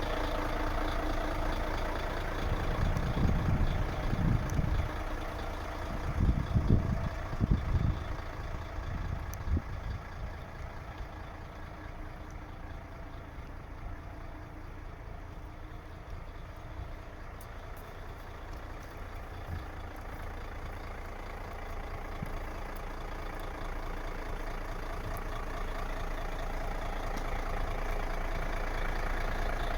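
Mercedes-Benz Actros 2536 truck's V6 diesel engine running at idle, with a few louder low rumbles a few seconds in, then a steady run that slowly grows louder toward the end.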